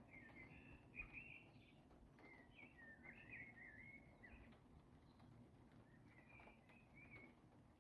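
A songbird singing faint warbling phrases, three short bouts separated by pauses.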